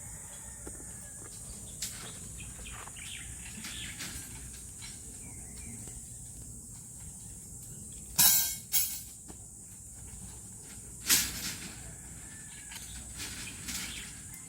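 Outdoor ambience of a steady insect hiss and faint bird chirps, broken by three sharp knocks: two close together about eight seconds in and one about three seconds later.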